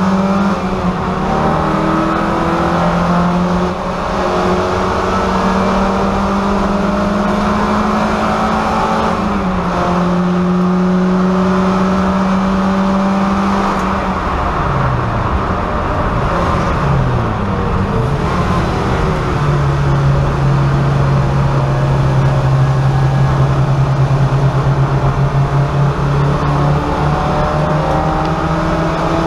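Race-prepared VW Golf's engine heard from inside its stripped cabin, running hard at high revs. Through the middle the revs fall and rise in quick swoops as it goes down the gears, then the engine holds a steady, lower pitch to the end.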